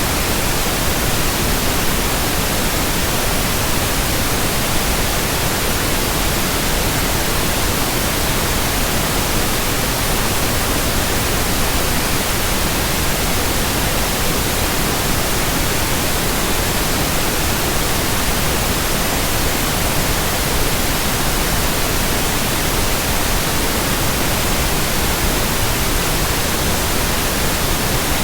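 Steady, unchanging white-noise hiss, spread evenly from low to high pitches, with no rhythm or swoosh of turning blades.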